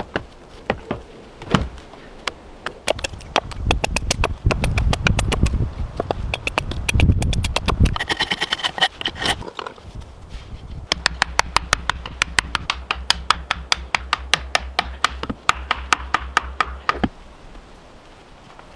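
Construction work on wood: fast runs of sharp taps and knocks with some heavier thuds, then a quick, even series of clicks over a steady low hum for several seconds, ending about a second before the end.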